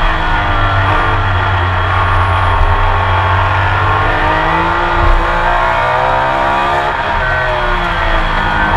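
Onboard sound of a Porsche 911 RSR's flat-six racing engine under load. The engine pitch drops over a couple of seconds as the car slows, breaks sharply about seven seconds in at a gear change, then climbs again as it accelerates.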